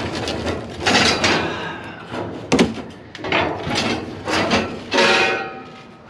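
Scrap metal and debris being shifted by hand in a dumpster: a run of scrapes and knocks, with one sharp clank about two and a half seconds in and a brief metallic ring near the end.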